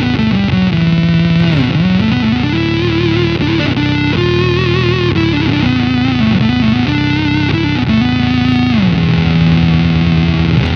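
Electric guitar through an EarthQuaker Devices Data Corrupter PLL synth pedal: a square-wave fuzz voice plus a subharmonic oscillator set three octaves down at a major second, giving a deliciously farty synth tone. The line slides between notes, wavers about halfway through, and settles on a long held low note near the end.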